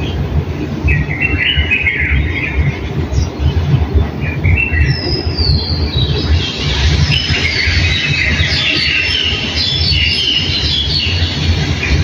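Small birds chirping, a few calls at first and then many overlapping twitters from about five seconds in, over a loud, continuous low rumble.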